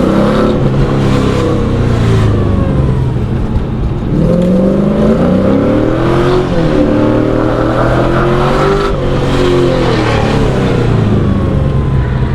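LS V8 engine in a BMW E36 revving under part throttle on a slick autocross course. The pitch climbs and drops several times as the throttle is applied and lifted between corners.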